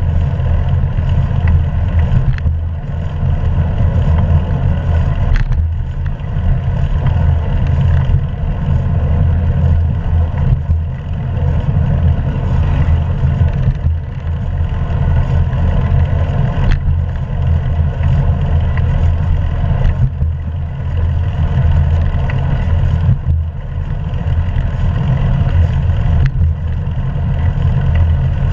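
Steady wind rumble and road noise on a GoPro action camera's microphone while riding a hybrid bicycle, with occasional faint knocks.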